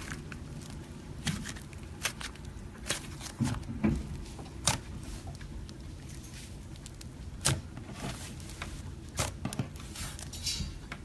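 Hands working slime, giving irregular sticky clicks and small pops, a few of them sharper and louder, over a low steady background.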